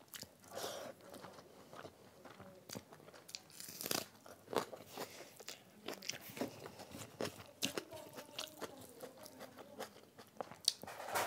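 Chewing and mouth noises of a person eating rice and egg curry by hand: an irregular run of short clicks and smacks.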